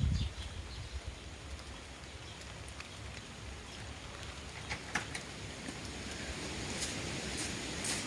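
Sparrows at bird feeders: scattered light taps and short high clicks over steady outdoor background noise, with a low thump right at the start and the taps coming more often toward the end.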